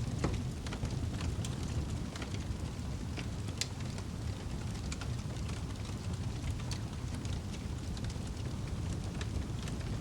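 Wood fire burning in a fireplace: a steady low rumble of flames with scattered crackles and pops, the sharpest about half a second in and around three and a half seconds in.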